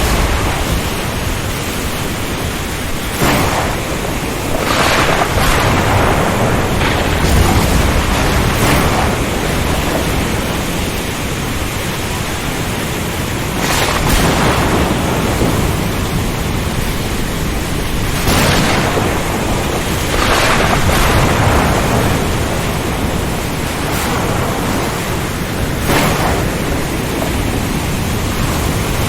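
Storm at sea: strong wind, rain and waves making a steady noise that swells in brief surges every few seconds.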